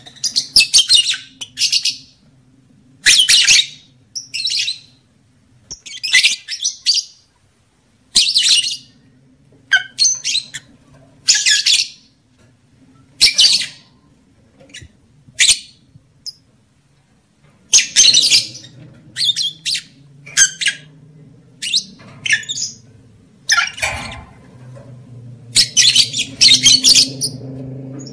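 Lovebirds calling in short, shrill chattering bursts, one every second or two: the breeding-season calls played to stir lovebirds to mate. A faint low hum runs underneath and grows louder near the end.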